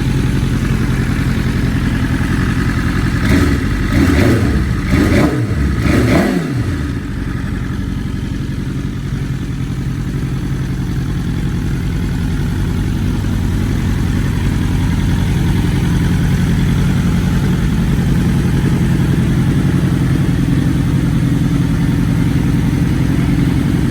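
A 2020 BMW S1000RR M's inline-four engine idling steadily. About three seconds in, the throttle is blipped four quick times before the engine settles back to idle.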